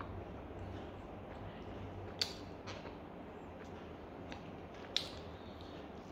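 Two sharp clicks about three seconds apart, with a couple of fainter ticks between them, over a low steady hum.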